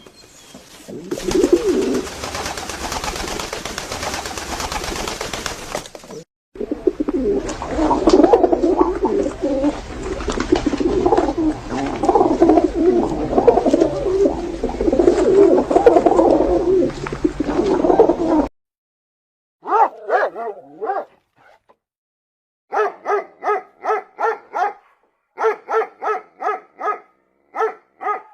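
Animal calls in separate recordings: a long, dense stretch of overlapping low cooing, typical of pigeons or doves, then a run of short calls repeated about twice a second.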